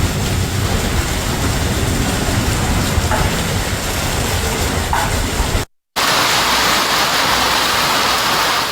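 Heavy rain pouring, with gusty wind rumbling on the microphone, in two shots joined by a brief dropout about six seconds in; the second shot is a brighter hiss of rain.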